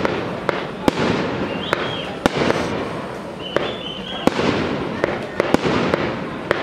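Aerial fireworks display: an irregular run of sharp bangs as shells burst, over a continuous crackling rumble. Two short high whistles come about 2 s and 4 s in.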